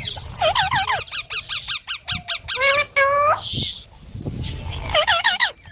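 Pet green parrot calling: a quick run of short, shrill squawks, then a few longer harsh calls and a drawn-out whistle, with more squawks near the end.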